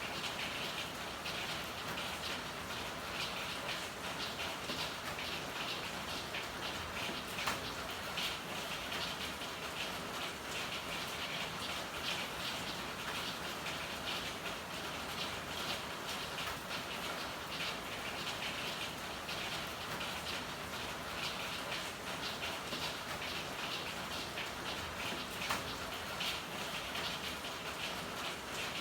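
Steady rain falling, a dense patter of drops, with a couple of sharper single ticks.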